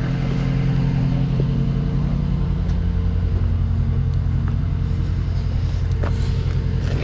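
Truck's diesel engine idling steadily with an even low rumble.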